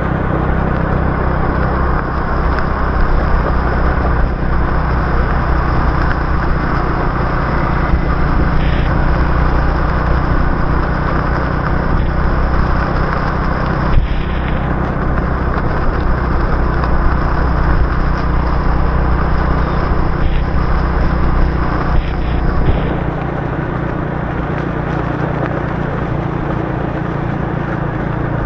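Motorbike engine running while riding, with steady road and wind noise and a few short clicks; the engine eases off and gets quieter near the end.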